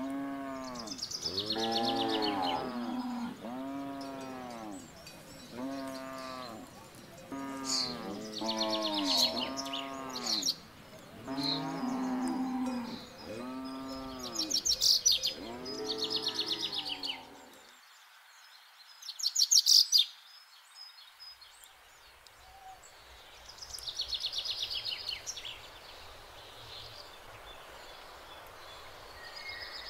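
Cattle mooing, a dense run of overlapping short moos that each rise then fall in pitch, stopping about two-thirds of the way through. Birds chirp and trill throughout, with two brief loud trills a little past halfway; after the mooing stops only the birds and faint background remain.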